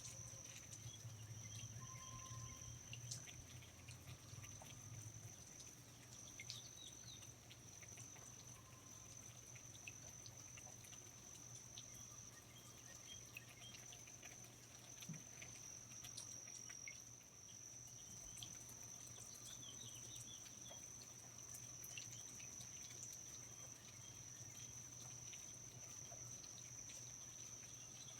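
Faint rainforest ambience: an insect's steady high-pitched trill runs on without a break, with scattered drips and small ticks over a low steady hum.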